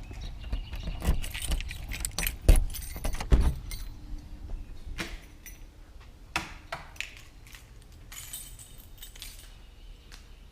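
Metallic jingling and clicking, dense over the first four seconds and then a few scattered clicks, over a low steady rumble.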